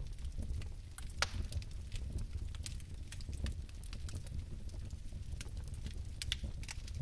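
Fire burning with a low steady rumble and scattered sharp crackles and snaps, the loudest about a second in.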